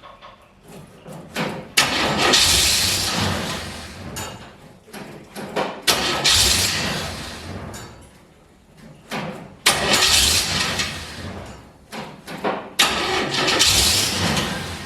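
4-litre straight-six Chevy engine being started: it catches four times, and each run fades out within two or three seconds. This is the stall the owner puts down to a faulty coil resistor or ignition wiring: it runs while the key is held in start and dies as soon as the key returns to on.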